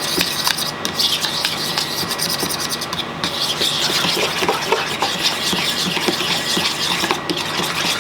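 A fork whisking a thick mayonnaise and sour cream garlic sauce in a bowl: continuous quick scraping and fine clicking as the fork works around the bowl.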